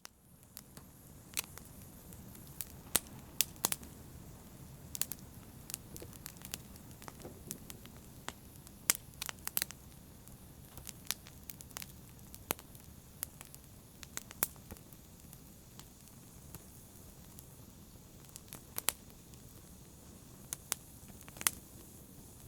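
Wood fire crackling in a fireplace: a steady low rumble of flames with irregular sharp pops and snaps, a few of them much louder than the rest.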